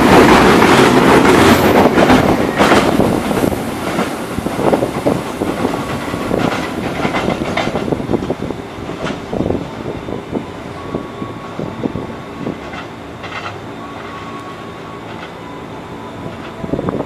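Container freight train running past on the platform line, its wagon wheels clicking over the rail joints, loud at first and fading steadily as the last flat wagons draw away. Faint thin whines come and go as the sound dies down.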